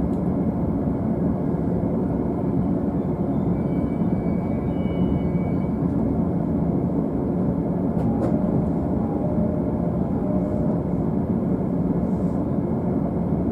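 JR East E531 series electric train running, heard inside the upper deck of a double-decker Green car: a steady rolling rumble with faint high whine tones, and a single sharp click about eight seconds in.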